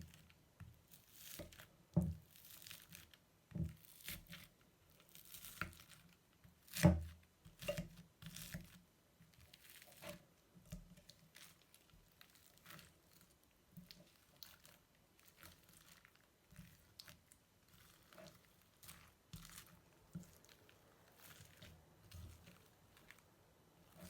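Crunchy slime being squeezed and kneaded by hand, giving irregular crackles and pops. A few louder pops come in the first eight seconds, then the crackling goes on softer and sparser.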